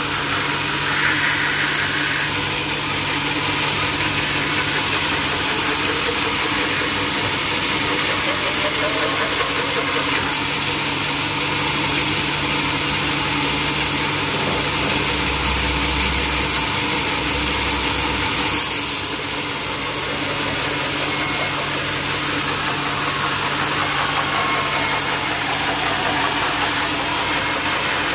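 Sawmill machinery running steadily: a constant engine-like hum under a broad hiss, with a short low rumble about halfway through.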